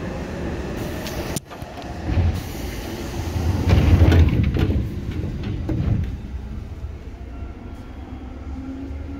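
Rail car noise from inside a Seibu 2000 series electric train: a low rumble with a sudden brief drop about a second and a half in, swelling to its loudest around four seconds, then easing off.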